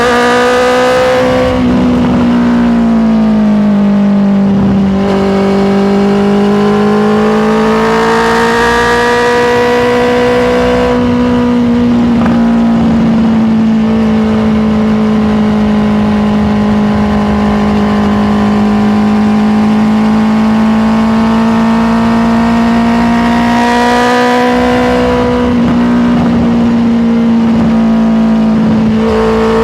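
Honda CBR650R's inline-four engine running at steady road speed. Its pitch eases down and climbs back a few times as the throttle is rolled off and on, with wind rush swelling at the same moments.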